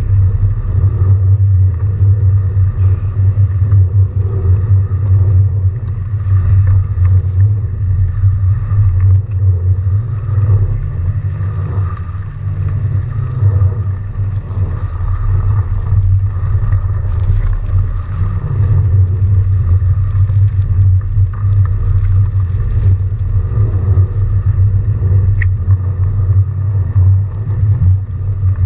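Continuous low rumble of a fat bike being ridden through snow, the tyre and riding noise picked up by a bike-mounted camera.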